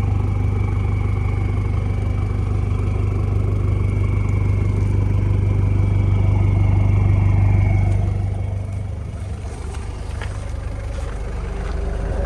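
1995 Toyota Hiace turbo diesel engine running at idle: a steady low hum with a thin high whine, both easing off about eight seconds in.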